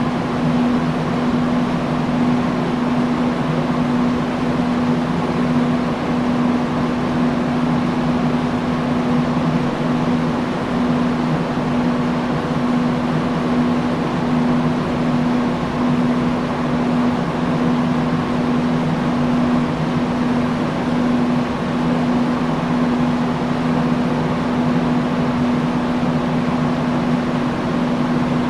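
Industrial fan running steadily: a constant rush of air with a steady low motor hum underneath.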